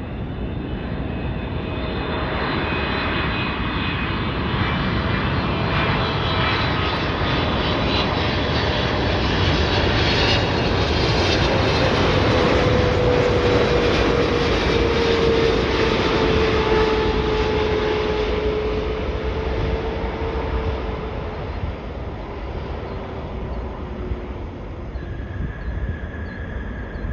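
Boeing 777-300ER jet airliner on approach passing the listener, its GE90 turbofan engines swelling to a peak about halfway through and then fading. An engine whine falls in pitch as it goes by.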